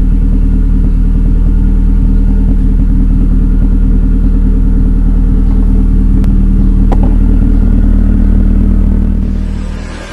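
Car engine running steadily at an even speed, with a deep, rumbling exhaust note that fades out near the end.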